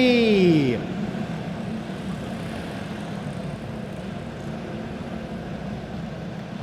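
Several go-kart engines running together in a steady drone, with no rises or falls in speed.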